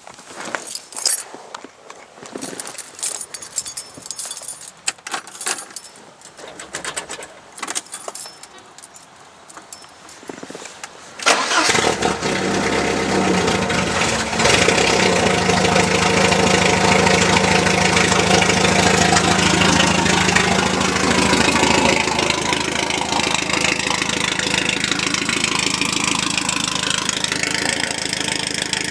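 Scattered clicks and knocks for about the first eleven seconds, then the 1983 Porsche 944's four-cylinder engine cranks, catches and runs at a steady idle. It is loud and raw because the exhaust is straight-piped, with both the catalytic converter and the muffler cut off.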